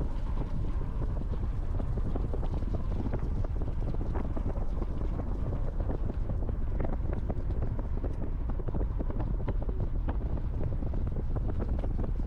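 River water flowing: a steady rush with many small splashes running through it.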